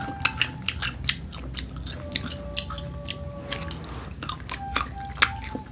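Crisp crunching bites and chewing of raw unripe green mango close to the microphone, a quick run of sharp crunches throughout.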